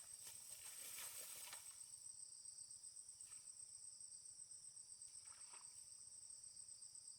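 Faint, steady high-pitched chorus of crickets or similar insects, with rustling steps through vegetation in the first second and a half and a couple of soft brief knocks later on.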